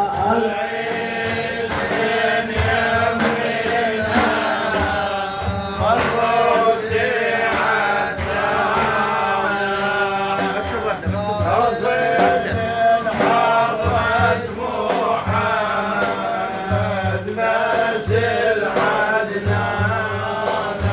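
Sufi dhikr chanting: several men's voices chanting together over repeated frame-drum strokes.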